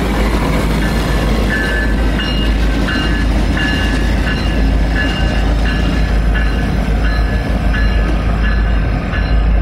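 Grand Canyon Railway train rolling by: a steady rumble of wheels on the track, with short high-pitched wheel squeals repeating every second or so.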